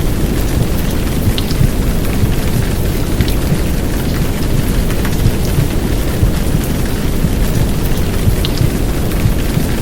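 Heavy downpour of rain blended with deep, steady womb-sound noise: a dense, unbroken rushing with most of its weight in the low end and a few faint drop ticks above it.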